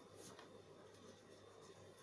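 Near silence: room tone with a faint steady hum and a faint brief scratch shortly after the start.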